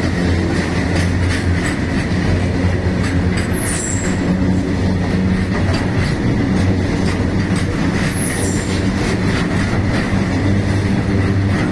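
Freight train running on the rails: a steady loud rumble with the knocking of wagon wheels over the track, and two brief high wheel squeals, about four seconds in and again about eight seconds in.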